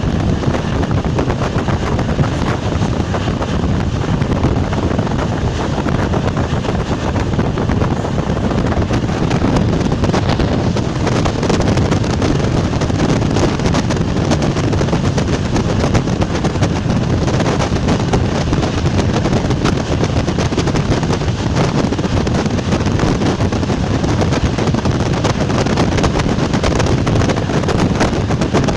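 ČD class 460 electric multiple unit running along the line: a steady, loud rumble with a fast rattling clatter and wind noise throughout.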